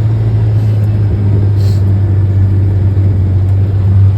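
Steady low drone of a car on the move, engine and road noise heard from inside the cabin.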